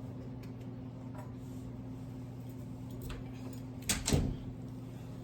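Quiet handling sounds of trimming the edges of a freshly unmolded soap loaf: a few faint clicks over a steady low hum, then two sharp knocks close together about four seconds in, like a tool or the loaf set down on the table.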